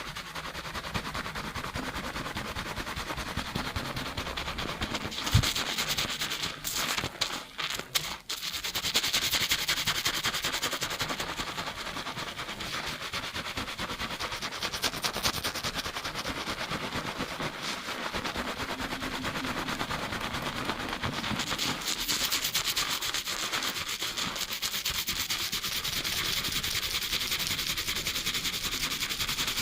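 Fast shampoo scrubbing: fingertips rapidly rubbing a lathered scalp and hair, heard close up in binaural sound as a steady, grainy, hissing rub. A few short knocks and breaks in the rubbing come between about five and eight seconds in.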